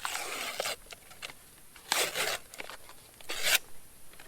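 A package being torn and crinkled open by hand, in three short bursts of tearing.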